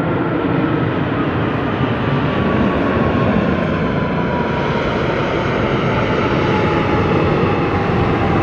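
Jet airliner at takeoff power climbing away, its engine noise loud and steady, with a whine that falls slowly in pitch.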